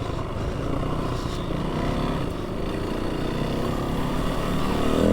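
A vehicle's engine running steadily under load while driving, its pitch wavering a little.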